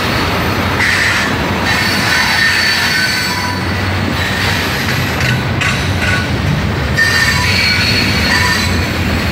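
Norfolk Southern manifest freight train's cars rolling past close by: a steady loud rumble of wheels on rail, with thin high wheel squeals coming and going.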